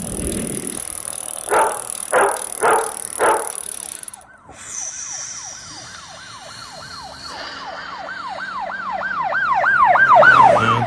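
Four short loud blasts, then a siren sound effect whooping up and down about three times a second and growing steadily louder until it peaks near the end.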